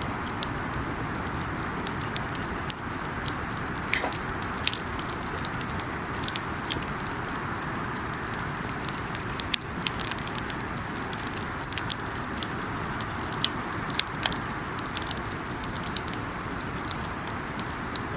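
Wood campfire crackling, with many sharp, irregular pops over a steady hiss.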